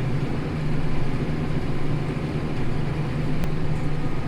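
Tractor engine running steadily while pulling a plough, a low, even drone. A faint click about three and a half seconds in.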